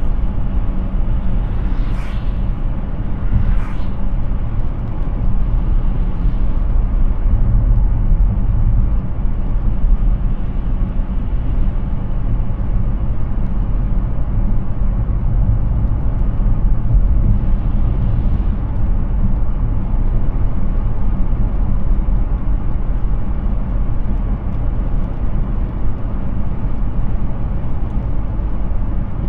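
Steady road and tyre rumble of an electric Hyundai Ioniq 6 driving, with no engine note. Two brief sharp sounds come about two and three and a half seconds in.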